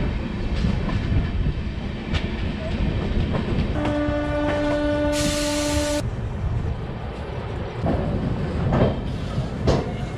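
Passenger train with LHB coaches running into a station, its wheels rumbling and clicking over rail joints and points. About four seconds in, a train horn gives one steady blast of about two seconds, with a sharp hiss over its last second.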